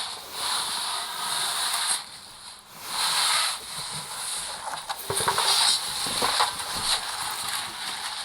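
Repeated bursts of hissy rustling noise, each lasting about a second, with short gaps between them.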